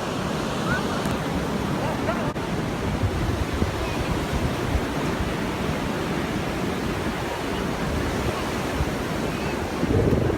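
Sea waves washing onto the Caspian Sea shore in a steady rush, with wind buffeting the microphone.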